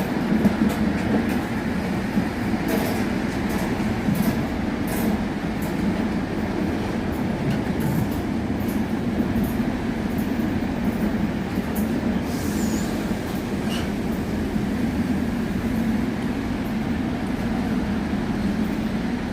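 Diesel locomotive running steadily as a train moves along the track, with clicks from wheels over rail joints in the first few seconds.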